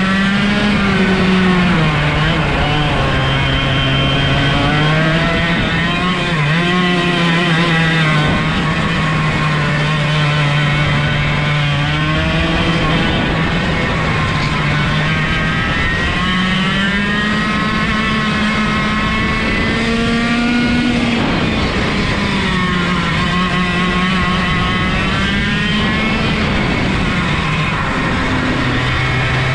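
Single-cylinder 125cc two-stroke go-kart engine running hard, its pitch climbing and dropping again and again as the kart accelerates and slows through the track. With no gearbox and no clutch, the engine note follows the kart's speed directly.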